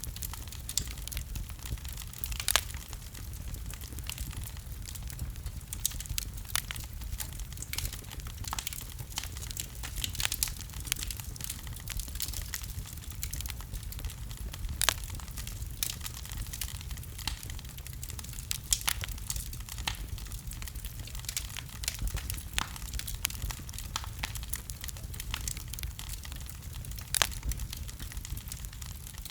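Wood fire burning in a fireplace: irregular crackles and sharp pops of burning logs over a steady low rumble of the flames, with a few louder snaps.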